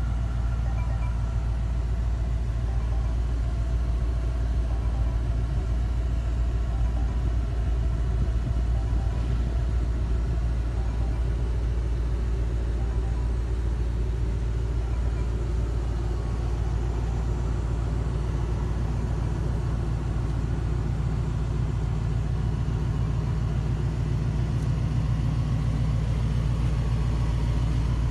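The Range Rover Sport SVR's 5.0-litre supercharged V8 idling steadily in Park, a low even rumble.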